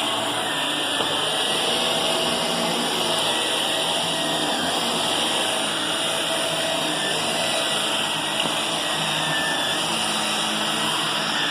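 Vacuum cleaner running steadily, a continuous motor hiss with a strong high whine.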